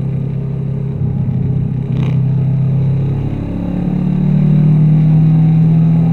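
Honda VFR800's V4 engine through its aftermarket Black Widow exhaust, running under way and picking up revs about three and a half seconds in, getting louder. A brief click about two seconds in.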